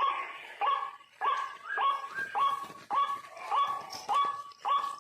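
White-breasted waterhen (ruak-ruak) calling, a fast run of about nine harsh 'ruak' notes roughly 0.6 s apart, each rising sharply and then holding level.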